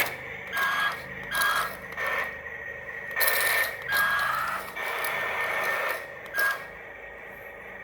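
Small electric motors of a miniature toy excavator whirring in about eight short bursts, each a second or less. The whine dips in pitch in some bursts as the arm and bucket move.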